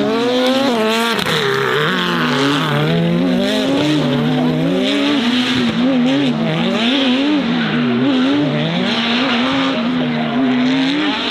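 Racing car engine revved hard, its pitch rising and falling again and again, about once a second, with tyres squealing. Near the end the revs are held steady.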